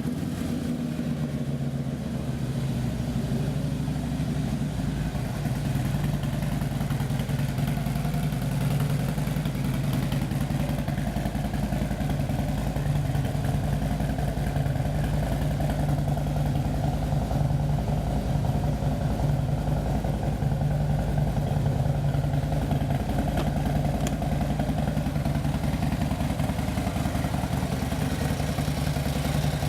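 Harley-Davidson Ultra Limited's 103-inch fuel-injected Twin Cam V-twin idling steadily through a D&D 2-into-1 Fat Cat exhaust, just after being started.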